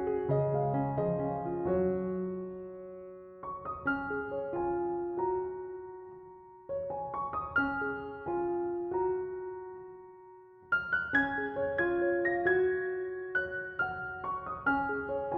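Slow, gentle piano music: phrases of struck notes that ring out and fade, with a new phrase beginning about every three to four seconds.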